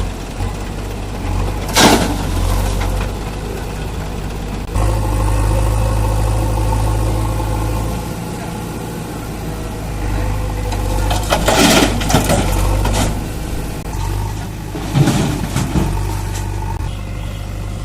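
Heavy diesel engine running steadily, growing louder about five seconds in, with a few short noisy bursts over it.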